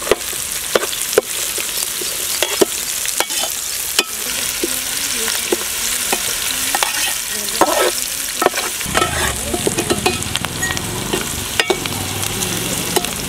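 Chopped vegetables sizzling in hot oil in an aluminium pan, stirred with a perforated metal skimmer that scrapes and clicks against the pan many times. A low rumble joins the sizzle about nine seconds in.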